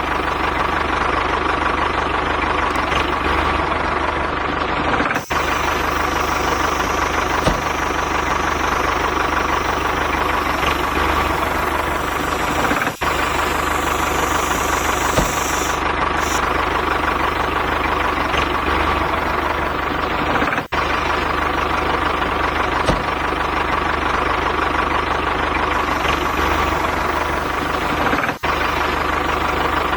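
A mini tractor running steadily with an engine-like sound. It drops out for an instant four times, evenly spaced about eight seconds apart.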